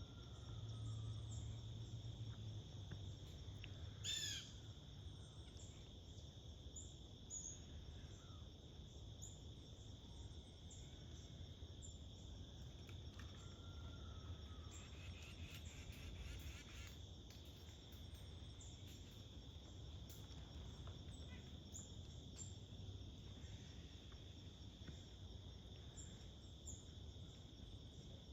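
Faint, steady high-pitched insect chorus, with scattered short bird chirps and one louder bird call about four seconds in.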